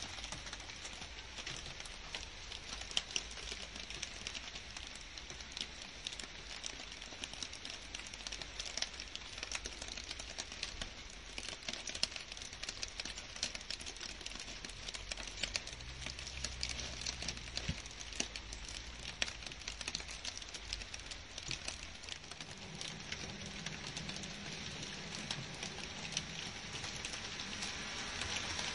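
Steady rainfall on garden foliage: an even hiss dense with the sharp patter of individual drops hitting leaves.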